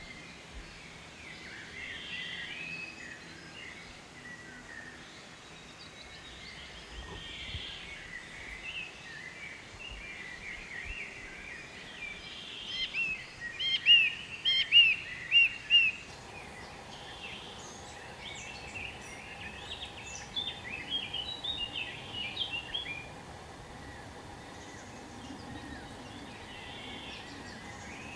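Birds chirping and singing, with a run of loud, quickly repeated chirps about halfway through and another shorter run a few seconds later. A faint steady hum comes in partway through.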